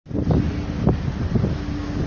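Wind buffeting the microphone in gusts over the steady low hum of a ferry underway.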